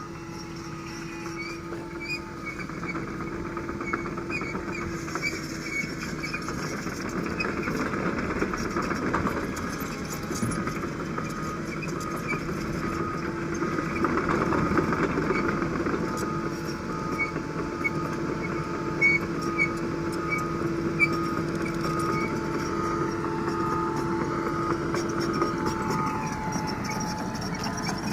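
Doosan DX225LCA excavator's diesel engine running steadily, with louder, rougher swells about a third of the way in and again about halfway through.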